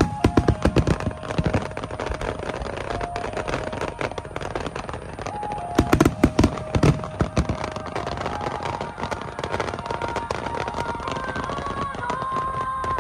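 Fireworks finale: rapid barrages of shell bursts, densest near the start and again about six seconds in, with music playing underneath, a held melody that steps slowly upward.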